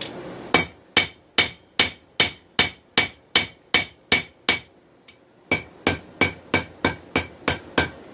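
Hand hammer striking a hot bar of 416 stainless steel on an anvil, forging the tip of a small knife: a steady run of about eleven blows, a brief pause about five seconds in, then about eight quicker blows. Each blow rings briefly.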